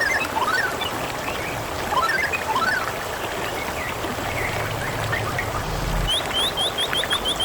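Water trickling and splashing steadily, with birds chirping over it: a few short gliding whistles near the start and again about two seconds in, then from about six seconds a fast run of high, rising notes repeated about six times a second.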